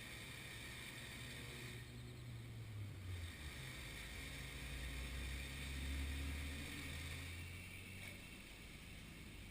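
A low engine hum running steadily, shifting pitch and swelling about five to seven seconds in before easing off.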